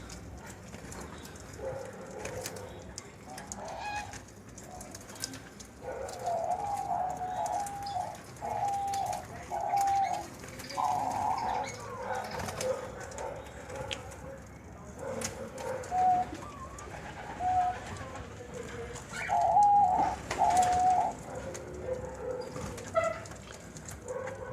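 Diamond doves cooing: short repeated coo notes in several runs of a few notes each, with scattered faint clicks between.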